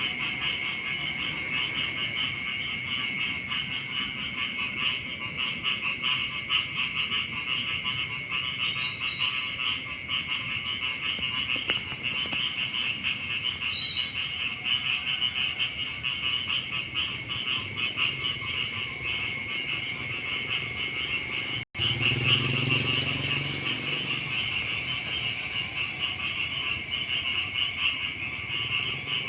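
A dense chorus of many frogs croaking in a rice paddy, continuous and pulsing, with no let-up. The sound cuts out for an instant about two-thirds of the way through, then the chorus carries on.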